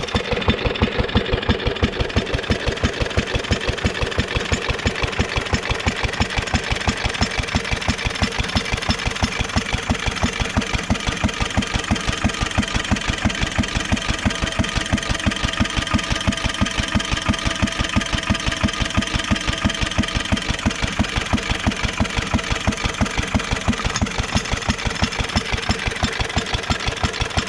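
International Harvester Model LB single-cylinder stationary engine running steadily with an even, regular beat of firing strokes. It is throttle governed, so it fires on every cycle instead of coasting between hits like a hit-and-miss engine.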